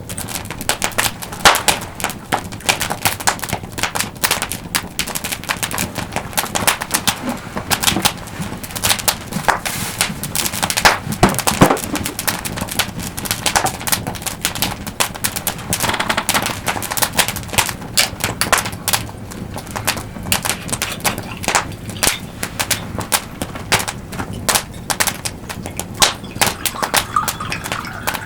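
Wood campfire crackling close up, a dense, irregular run of sharp snaps and pops.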